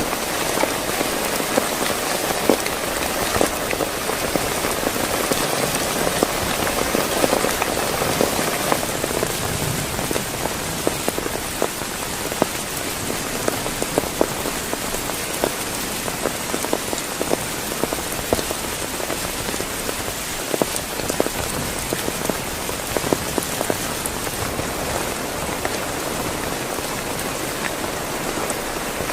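Heavy rain falling steadily, with many sharp individual drop hits on a nearby surface over the dense hiss of the downpour.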